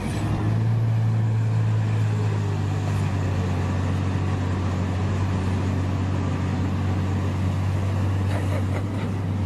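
A motor vehicle's engine running at a steady low hum, with a haze of traffic noise over it.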